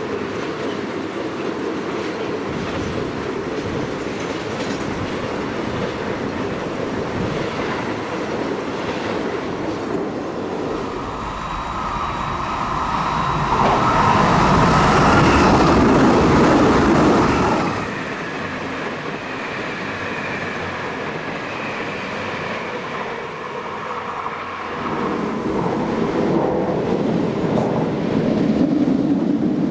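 Loaded timber freight wagons rolling past on the rails with a steady clatter. Then a CP class 3400 electric multiple unit runs through, loudest for a few seconds in the middle with a steady whine over the rail noise. Near the end a second unit of the same class comes through and the rolling sound rises again.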